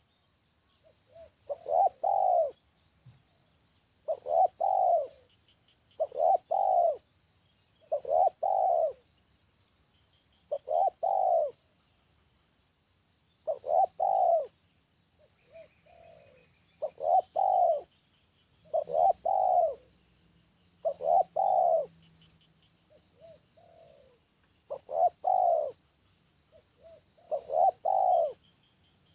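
Spotted dove (tekukur) cooing: about a dozen loud repeated coo phrases of a few notes each, every two to three seconds, with softer short coos in between.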